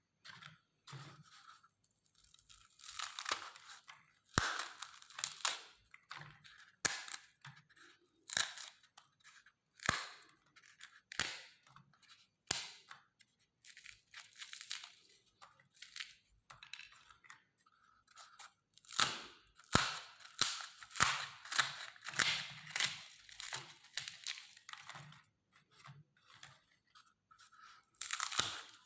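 Meat grinder crushing colourful ice cream cones: irregular bursts of crunching and crackling, with a few sharp snaps as pieces break.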